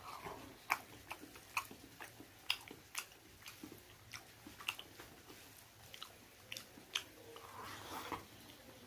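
A person chewing and biting pork close to the microphone, with irregular sharp mouth clicks about one or two a second.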